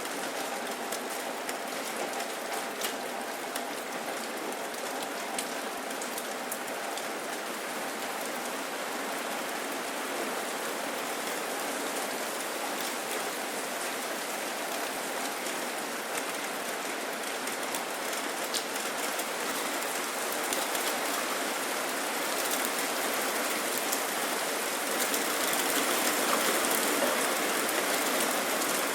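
Steady rain falling, a dense hiss with scattered sharp drop hits; it grows heavier over the last few seconds.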